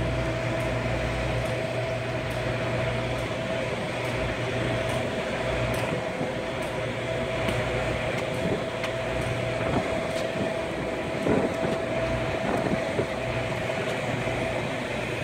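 Steady mechanical drone of a vehicle heard from inside, a constant hum with a steady tone.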